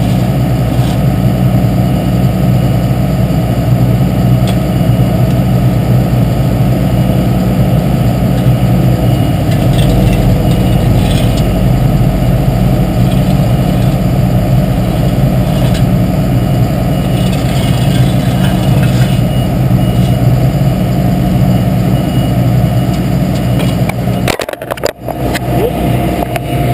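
Engine of heavy road-paving machinery running steadily with a constant low drone, briefly dropping away near the end.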